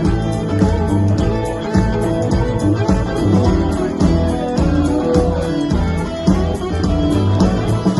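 Live blues band playing an instrumental break between verses, guitar to the fore over bass and a steady drum beat.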